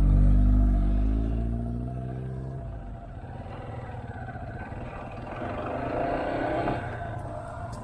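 Motorcycle engine pulling hard under acceleration, its note climbing for about two and a half seconds before it falls away suddenly to quieter running with road noise. A second, fainter engine note rises a few seconds later.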